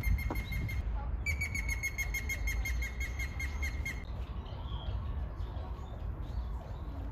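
A bird calling a rapid run of identical high notes, about six a second, breaking off briefly about a second in and stopping about four seconds in, over a steady low background rumble.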